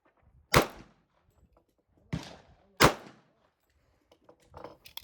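Three pistol shots: one about half a second in, then two more close together just after two seconds and near three seconds. Each is a sharp crack with a short ringing tail.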